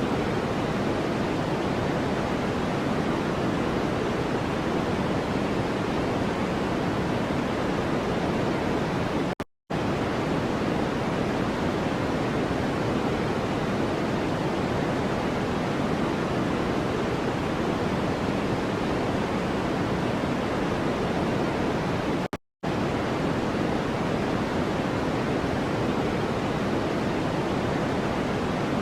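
Steady, even hiss of a white-noise track, fuller in the low and middle range than the top, cutting out to silence for a split second twice, about nine and a half and twenty-two and a half seconds in.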